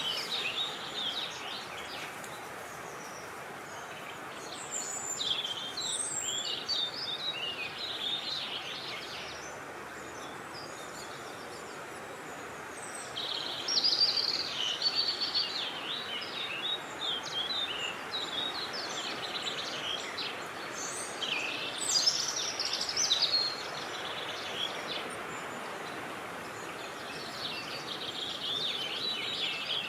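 Birds singing in a series of quick chirping, trilling phrases that come and go in spells, over a steady rushing of wind.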